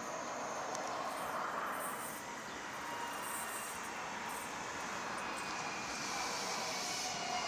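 JR Shikoku 7200 series electric train approaching along the track: a steady, fairly quiet running noise that grows a little louder toward the end, with faint high whining tones coming in about halfway.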